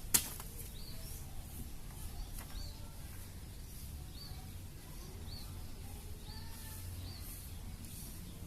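A bird chirping a short, high note about once a second over a steady low rumble of wind. A single sharp click sounds just after the start.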